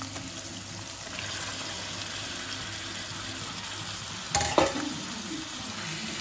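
Curd-marinated chicken pieces sizzling steadily as they fry in hot oil and masala in a pan, with one sharp clatter of kitchenware about four and a half seconds in.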